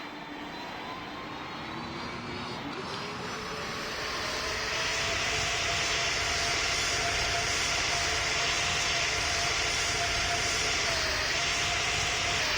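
Jet engines of an Airbus A220, Pratt & Whitney PW1500G geared turbofans, with a whine that climbs in pitch over the first few seconds as the sound grows louder, then holds steady at a high, even level.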